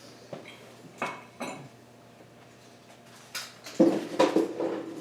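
Steel sockets and hand tools clinking and clattering against each other as a socket is sought for the crank pulley bolt: a few light clinks, then a louder burst of ringing metal clatter about four seconds in.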